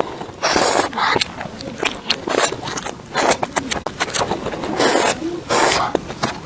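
Close-miked eating sounds: steady chewing and wet mouth clicks, with several louder noisy bursts of about half a second each, the first about half a second in and others near 3 s, 5 s and 5.5 s.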